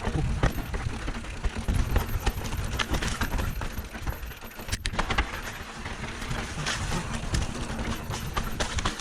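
Mountain bike ridden over a rough dirt trail: irregular rattling and knocking from the bike and tyres over a continuous low rumble.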